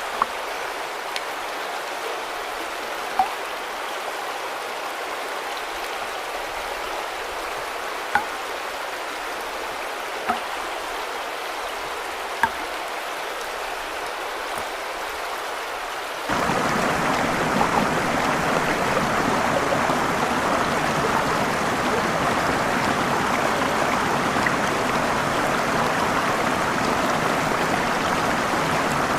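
Steady rush of falling and flowing water from a waterfall or stream, with a few sharp drips or splashes standing out in the first half. About halfway through it suddenly becomes louder and fuller, as the water sound changes abruptly to a heavier fall.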